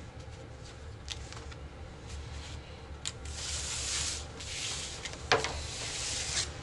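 Playing cards being slid and gathered on a tabletop: a few light taps, then a few seconds of rustling swish with one sharp click about five seconds in.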